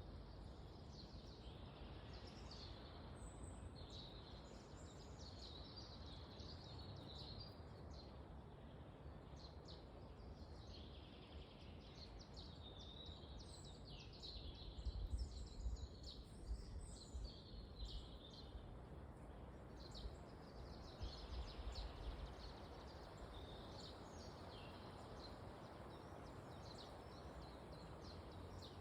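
Forest in windy weather: a steady rush of wind through the trees, with small birds chirping and twittering throughout. Stronger, deeper gusts come through about halfway and again a little later.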